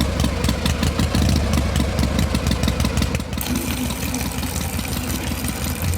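Small engine running with a rapid, even chugging.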